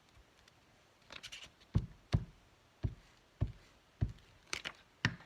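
A light rustle about a second in, then a series of about seven short knocks on a work surface, roughly every half second.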